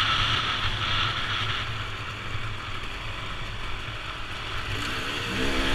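Motorbike engine running off the throttle, its sound falling away to a low steady thrum with road and wind noise, then revving up again near the end.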